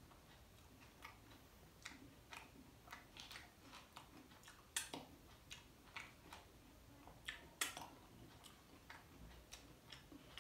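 Faint close-up chewing of lachha paratha with shahi paneer: irregular soft clicks and crunches from the mouth and the flaky bread, with two louder ones about five and seven and a half seconds in.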